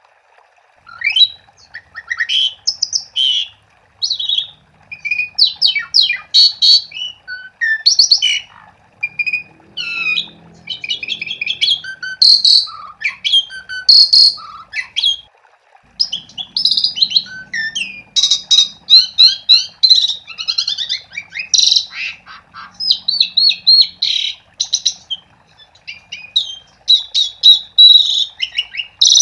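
Asian pied starling (jalak suren) singing a long, varied chattering song of whistles, rising and falling glides and rasping notes, almost without pause from about a second in.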